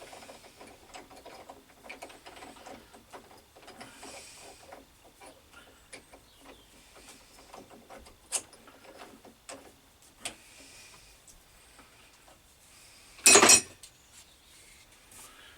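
Atlas 10 metal lathe running with a light, irregular ticking and rattle from its drive and gears. About thirteen seconds in comes one loud, short noise lasting about half a second.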